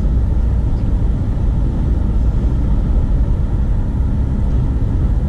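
Steady low rumble of a car in motion, tyre and engine noise heard from inside the cabin.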